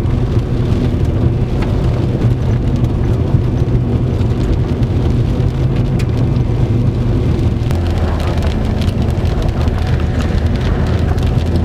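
Heavy rain pelting a moving car, heard from inside the cabin, with steady engine and road noise underneath. The low drone drops in pitch about eight seconds in.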